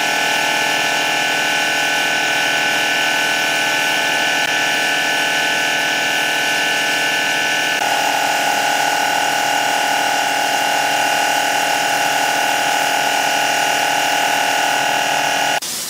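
Electric woodworking power tool running steadily at high speed, its tone shifting slightly about halfway through, then cutting off suddenly just before the end.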